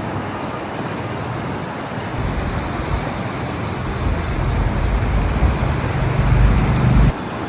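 A motor vehicle's engine running under a steady rushing noise, growing louder toward the end and cutting off abruptly about seven seconds in.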